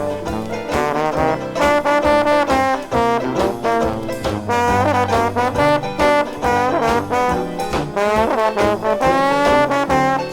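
Dixieland jazz band playing an instrumental passage, with brass leading over a steady beat, from a vinyl record.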